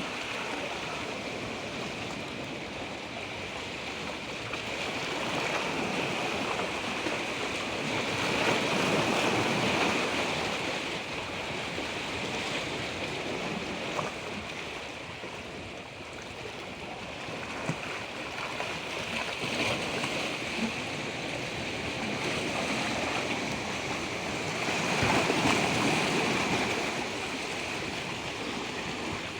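Moving water: a continuous rushing that swells louder twice, about a third of the way in and again near the end.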